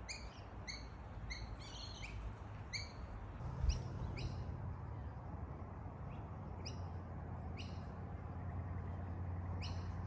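Bird chirping: short, sharp descending chirps repeated every half second to a second. A low steady hum joins underneath a few seconds in.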